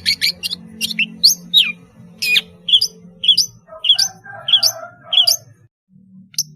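Long-tailed shrike singing: a fast run of sharp chattering notes, then a series of separate high, downward-sweeping whistled notes about two a second, with a softer, lower warble in the middle.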